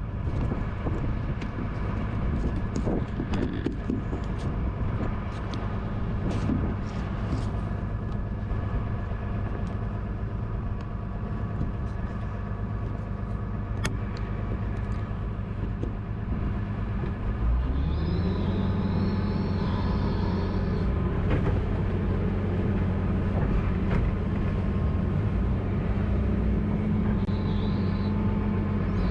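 Tractor engine running steadily while powering a manure tank agitator (stir stick); about two-thirds of the way through it revs up and runs louder and higher.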